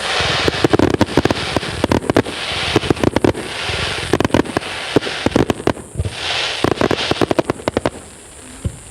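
Aerial fireworks bursting in a dense stream of sharp crackles over a hissing rush, coming in three waves and dying away near the end.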